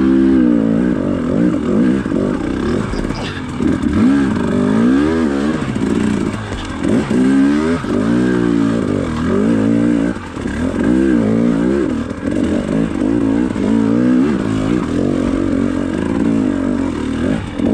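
Dirt bike engine revving up and down over and over as the bike climbs a rocky trail section, the pitch rising and dropping with each burst of throttle.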